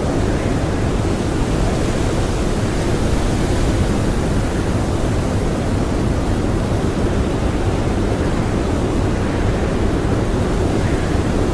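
Howling blizzard wind, a steady, dense rush of noise that is heaviest low in pitch, with no distinct gusts or breaks.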